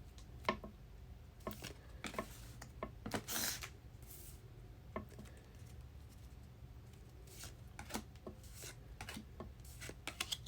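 Trading cards being handled: scattered light taps and clicks with short rubbing swishes as cards slide against each other, the longest swish a little past three seconds in.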